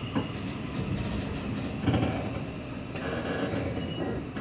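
Seibu Railway electric train running on the rails: a steady rumble of wheels and car noise, with a sharp clank about two seconds in.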